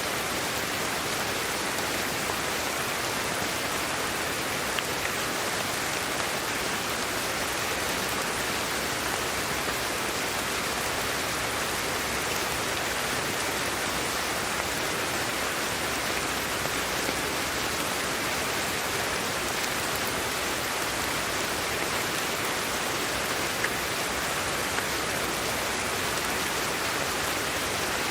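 Steady sleep-aid noise: an even, rain-like hiss that never changes in level, with a few faint ticks scattered through it.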